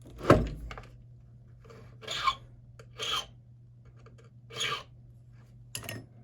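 A sharp knock, then four separate rasping strokes of a small hand file on a key blank, cutting down space 4 where the impression mark showed.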